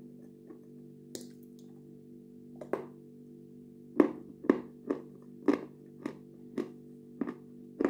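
Close-miked chewing of food dipped in yogurt: a few single crunches early on, then regular crunches about twice a second from about four seconds in. Soft background music plays throughout.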